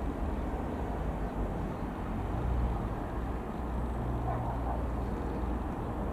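Steady low rumble of a Boeing 737-800's CFM56-7B jet engines as the airliner passes overhead, holding level throughout.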